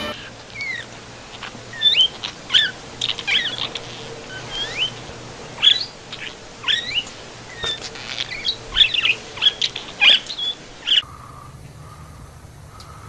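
A bird chirping and squawking in a busy series of short, quickly gliding calls, which stop abruptly about eleven seconds in.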